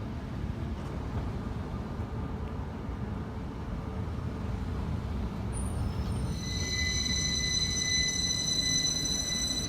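Class 333 electric multiple unit rumbling slowly into a terminal platform. About six seconds in, a steady high-pitched squeal starts and holds as it brakes to a stop.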